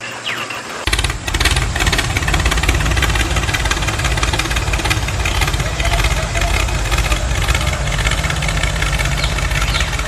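An engine running steadily with a heavy low rumble, starting abruptly about a second in.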